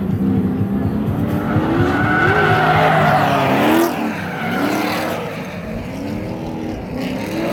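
Drift cars sliding past with engines revving up and down and tires squealing, loudest about three and a half seconds in, then dropping away.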